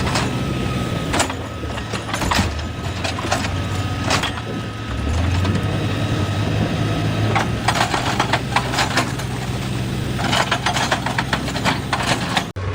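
Excavator's diesel engine running steadily and rising in pitch about five seconds in as it takes load. Over it come several sharp knocks in the first few seconds, then two long stretches of rapid clattering of rock and metal.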